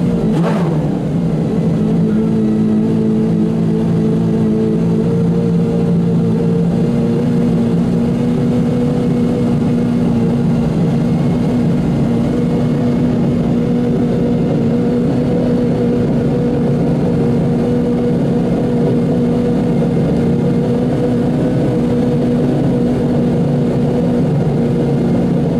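Pagani Zonda Revolución's 6.0-litre V12 idling at a standstill. Its pitch falls back to idle about half a second in, then it runs at a steady idle.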